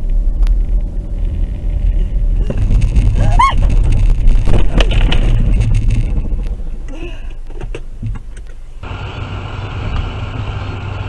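A car's engine and road noise rumbling steadily, heard from inside the vehicle. About three and a half seconds in a short rising tone is heard, and a few sharp knocks follow around four to five seconds in.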